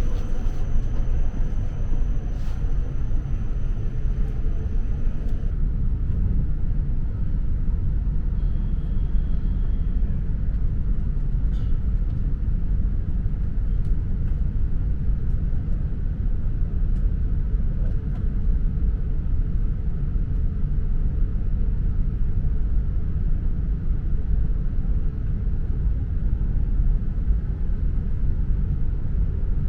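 Steady low rumble of an E4 series Max double-decker Shinkansen running at speed, heard from inside the lower-deck cabin. A faint high whine stops about five seconds in.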